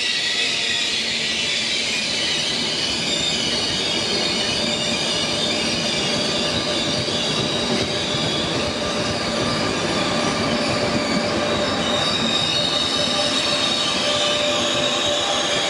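A train moving along the platform track, its wheels squealing against the rails: several steady high-pitched squealing tones over the rumble of the running gear.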